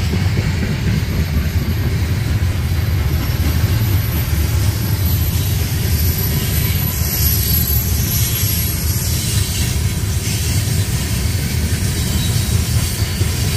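Train passing, a loud steady low rumble.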